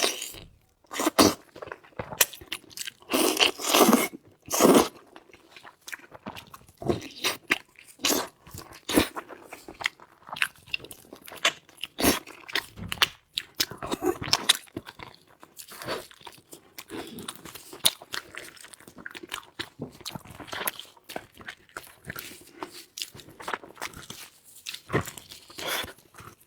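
A person biting and chewing meat close to the microphone: irregular crunches, clicks and wet mouth sounds, loudest about three to five seconds in.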